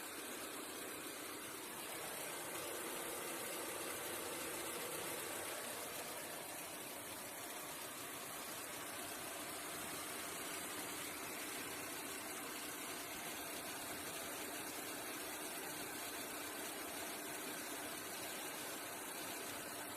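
Car engine idling steadily, mixed with a steady hiss of a 2200 W electric kettle heating.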